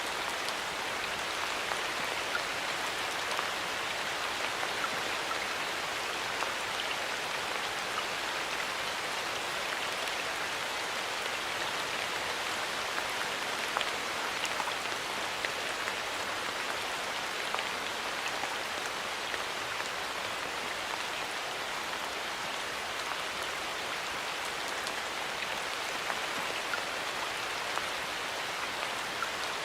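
Steady rain falling in a forest, an even hiss with scattered individual drops ticking on leaves.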